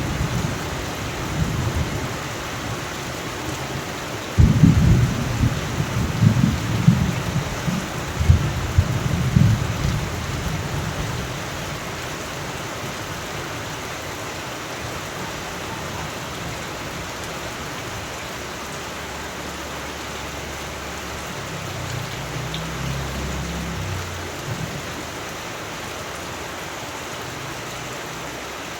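Steady rain falling, with a loud roll of thunder rumbling for several seconds starting about four seconds in, and a softer, more distant rumble later on.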